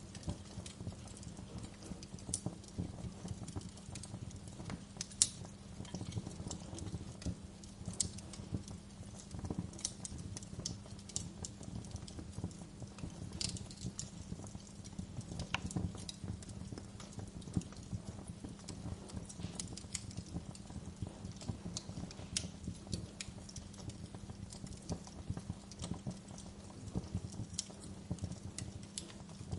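Wood fire crackling in a fireplace: irregular sharp pops and snaps over a low, steady rumble, with one louder pop about five seconds in.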